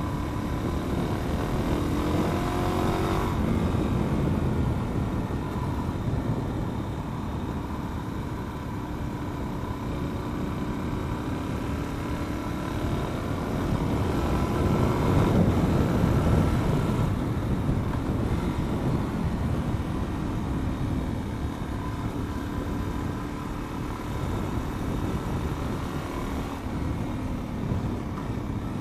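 Supermoto motorcycle engine running while being ridden, under steady wind and road noise. The engine note climbs during the first few seconds, and everything gets louder about halfway through.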